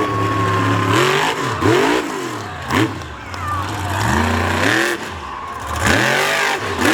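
Monster truck engine revving hard again and again, its pitch climbing and falling several times in quick succession, with a few sharp cracks in between.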